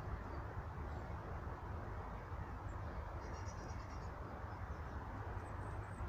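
Steady outdoor background noise with a low rumble, and a small bird's short burst of high-pitched notes a little over three seconds in.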